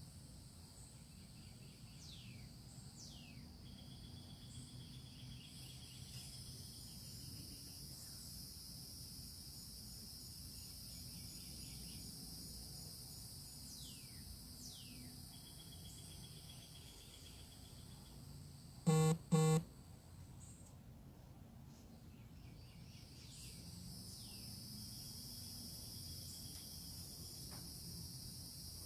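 A steady, high chorus of insects chirring, with a few falling bird whistles, often in pairs. About two-thirds of the way in come two short, loud honks, half a second apart.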